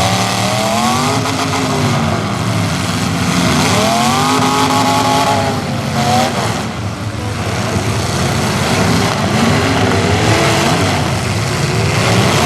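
Demolition derby cars' engines revving hard and falling back, several at once and overlapping, through loud open exhausts.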